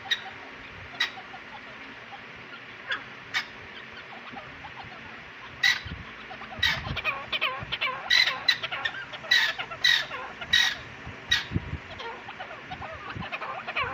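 Francolins (teetar) calling: sharp, repeated call notes, a few spaced out at first, then a dense run of calls through the middle, over a steady background hiss.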